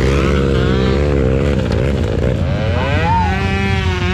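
Off-road trail motorcycle engines running and revving, their pitch rising and falling unevenly, with one clear rev upward about three seconds in.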